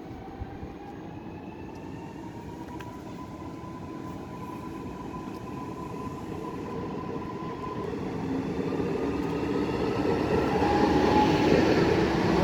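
Electric train accelerating, its motor whine slowly rising in pitch over the rolling rumble and growing steadily louder as it comes closer.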